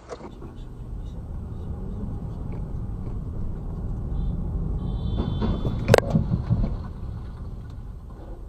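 Vehicle rumble swells steadily, with a brief high-pitched tone just before a single sharp bang about six seconds in. The bang is the loudest moment, typical of a car collision, and the rumble fades after it.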